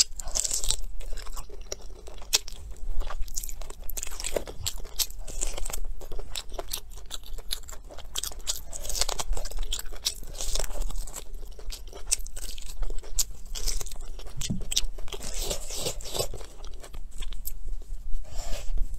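Close biting and chewing on a braised pork trotter held in the hand: a dense, irregular run of short clicks from teeth on meat, skin and bone.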